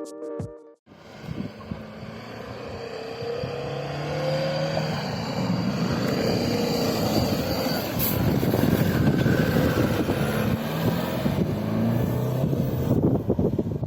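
Intro music cutting off about a second in, then a diesel 4x4 SUV engine under load on a soft off-road trail, rising in pitch a few times as it is revved and growing louder.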